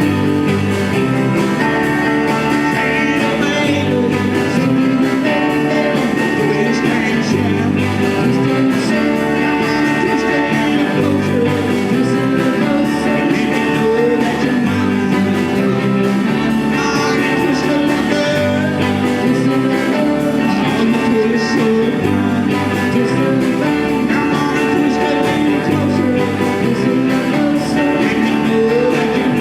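A small band playing a country-rock song, with guitars, a bass line and a singing voice.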